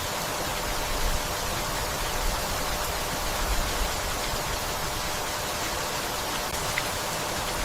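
Steady rain falling, an even hiss with a single faint drop tick about seven seconds in.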